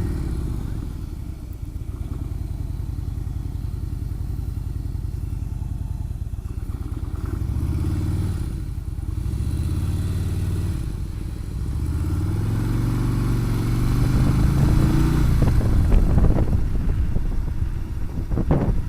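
Motorcycle engine running under way, its note rising as it speeds up twice, the second climb the longest, in the last third.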